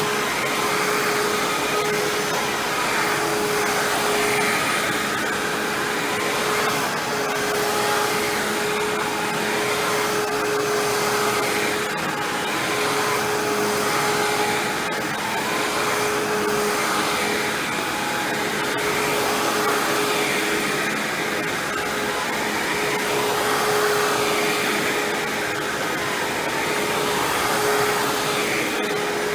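Hoover WindTunnel self-propelled bagless upright vacuum running while vacuuming, a steady motor hum with a constant whine. Its loudness swells and eases a little every few seconds.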